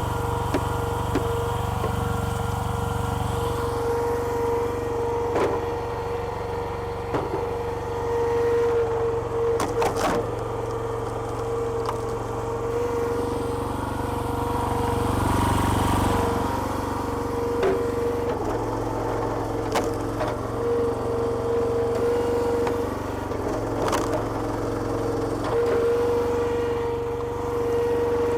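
Homemade hydraulic log splitter's petrol engine and pump running steadily with a whine, the engine note shifting several times as the ram takes up load. Logs crack and split with sharp cracks at intervals, about half a dozen times.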